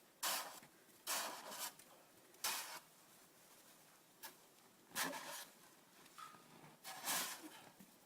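Hard-packed snow crunching and scraping in about six separate short bursts, irregularly spaced, as it is broken up and moved.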